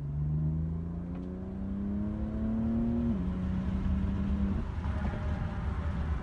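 BMW M3 engine accelerating hard, its pitch rising steadily, then dropping suddenly about three seconds in at an upshift. It pulls on at a steady pitch before easing off at about four and a half seconds, over a constant low road rumble.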